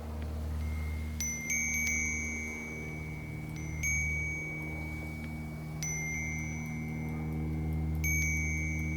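Wind-chime bells struck by the wind, ringing out in small clusters of clear high tones every two seconds or so, each note dying away slowly, over a steady low rumble of wind.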